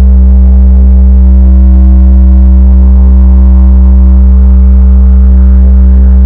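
Ambient meditation music: a loud, steady deep drone with a cluster of sustained overtones held unchanged above it.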